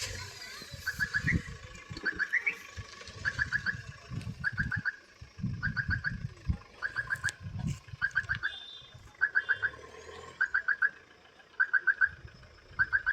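A bird call: quick groups of three or four short, clipped notes, repeated about once a second, with low rumbling bursts underneath.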